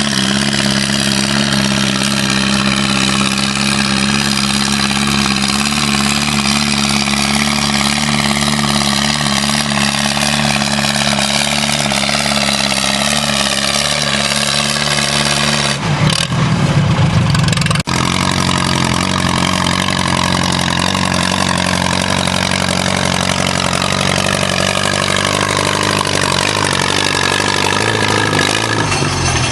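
Antique tractor engine running hard under load, its pitch slowly sinking as it lugs down pulling the weight sled. About halfway through the sound changes abruptly for a couple of seconds, then the engine is heard again, still pulling down.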